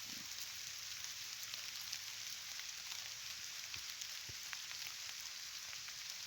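Faint steady hiss sprinkled with many small, irregular ticks, like light rain pattering on a surface.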